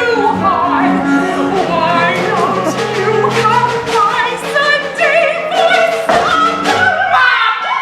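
Operatic singing, several voices with vibrato, over sustained low notes.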